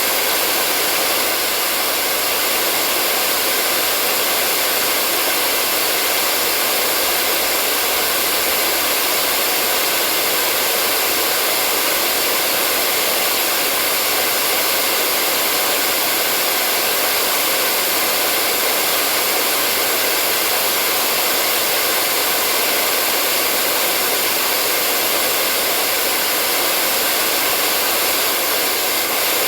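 Hair dryer blowing steadily: an even, unbroken rush of air with a faint motor whine in it.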